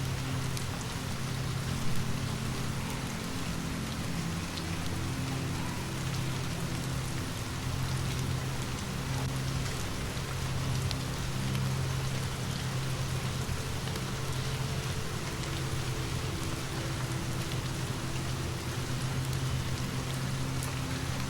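Steady rain falling, an even hiss, over a low steady hum, with scattered sharp clicks and one louder pop about two seconds in.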